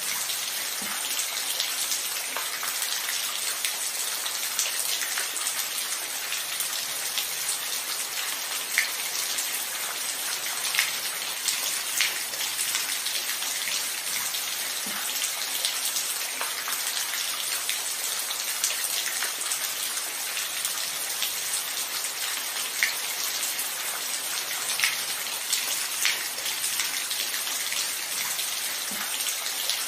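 Steady rainfall: an even hiss of rain with individual louder drops ticking here and there.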